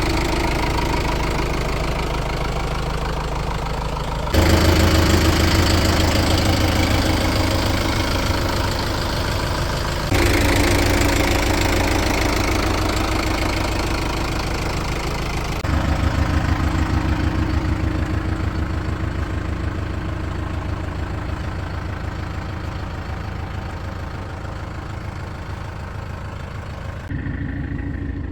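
Diesel engine of heavy machinery running with a steady knocking beat, in several spliced clips that change abruptly about 4, 10, 16 and 27 seconds in.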